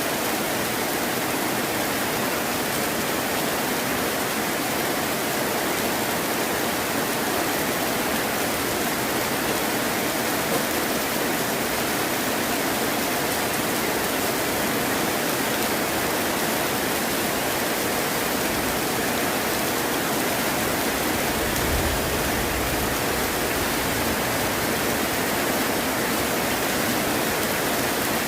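Heavy rain falling in a steady, dense hiss. About three-quarters of the way through, a soft low rumble of distant thunder swells and fades under it.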